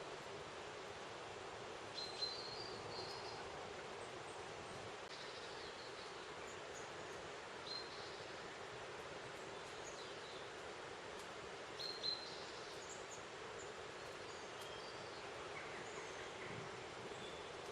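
Scattered short, high bird calls, a few at a time and loudest about two and twelve seconds in, over a steady hiss of outdoor background noise.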